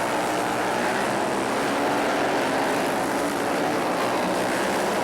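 Flat-track racing motorcycles' engines running during a race, several engine notes overlapping without a break.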